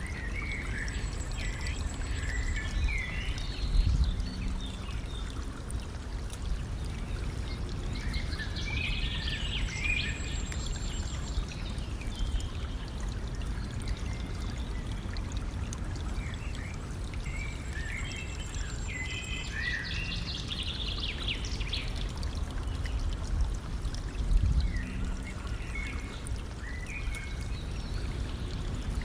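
A stream flowing and trickling steadily, with songbirds singing short bursts of chirps every several seconds and a thin high note held over some of them. Two louder low thumps stand out, about four seconds in and near the end.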